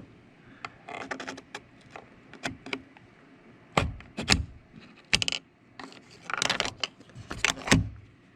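Parts of a Chevrolet Silverado door handle and lock assembly being worked loose by hand: irregular clicks, rattles and several heavier knocks.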